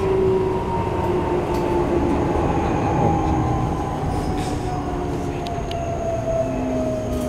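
Keikyu New 1000 series train heard from inside the car: its Toyo IGBT-VVVF inverter whine slides steadily down in pitch as the train slows, over a constant rumble of wheels on rail.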